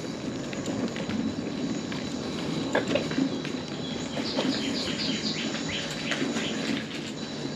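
Outdoor ambience with a songbird singing a quick run of five or six down-slurred notes about four seconds in. A steady low background noise runs underneath, with a single sharp knock about three seconds in.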